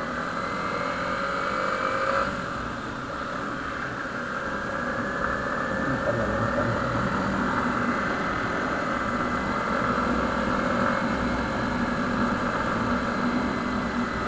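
Motorcycle engine running while riding at road speed. The engine note drops about two seconds in, then climbs slowly and holds steady.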